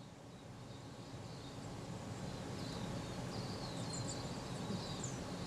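Faint room ambience: a steady low background noise that swells gradually, with small birds chirping faintly from outside in the second half.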